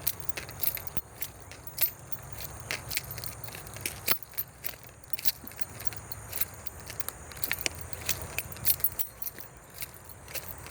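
Walking sounds: irregular light clicks and a jangle as she walks, over a steady low rumble of distant traffic.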